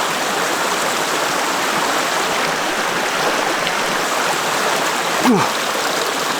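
Mountain valley stream flowing, a steady rush of water, with one short downward-sliding sound about five seconds in.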